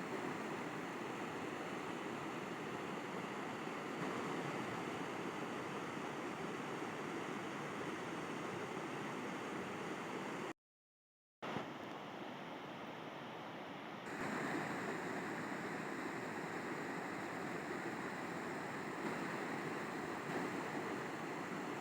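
River water flowing with a steady rushing sound. Just past the middle it cuts out to complete silence for about a second, comes back slightly quieter and duller for a few seconds, then returns to the full rush.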